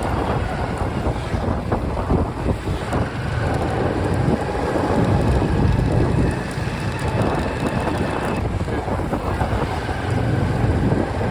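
Wind buffeting the microphone of a motorbike riding at highway speed, over a steady rumble of engine, tyre and traffic noise.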